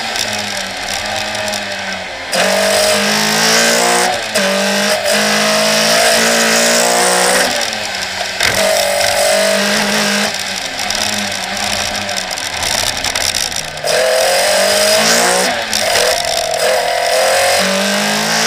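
Toyota Starlet KP's 2.0-litre 3S-GE BEAMS four-cylinder on individual throttle bodies, driven hard on a sprint rally stage and heard on board the car. The engine repeatedly revs up with a rising pitch and drops back for gear changes and lifts of the throttle.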